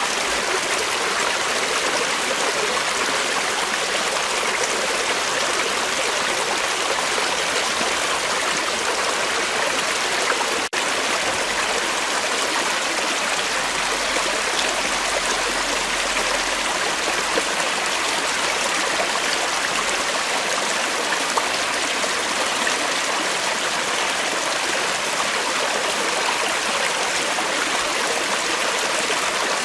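Creek water flowing and rushing over rocks, a steady even hiss without change, with a momentary dropout a little over ten seconds in.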